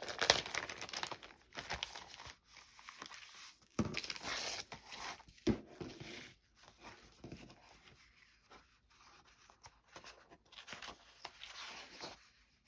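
Paper rustling and crinkling as vintage paper doll books and sheets are handled and leafed through, with a few sharp clicks from paper and card being moved; busiest near the start and again about four to five seconds in.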